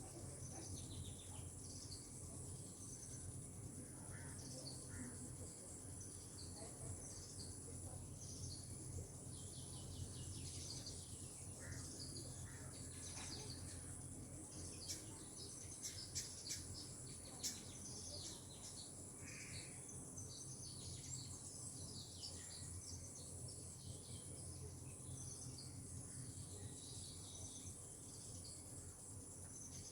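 Outdoor ambience of a high, steady insect drone with scattered bird chirps and calls over it. There are a few sharp ticks about halfway through.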